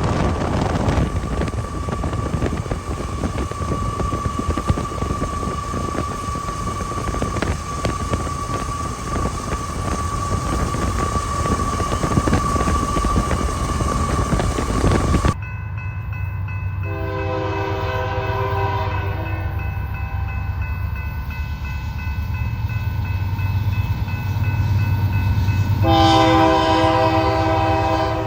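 Diesel locomotive air horn sounding two blasts of a few seconds each, one about halfway through and one near the end, over a low engine rumble. Before them a loud, noisy rush with a steady high whine cuts off abruptly.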